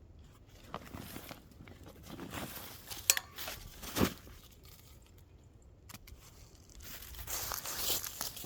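Rustling and crinkling of packaging and gear being handled, with two sharp clicks about three and four seconds in.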